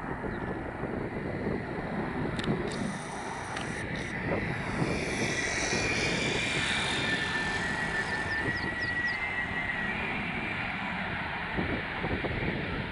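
Jet engines of an Airbus A330-900 (Rolls-Royce Trent 7000s) as the airliner comes in to land, a steady rumble with a whining tone that drops in pitch through the middle as it passes.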